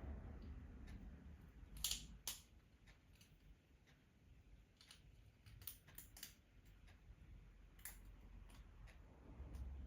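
Sharp clicks of a pincer tool and metal hose clamps being worked tight around plastic saddle clamps: two about two seconds in, a quick cluster of three around six seconds, another near eight, over a faint low hum.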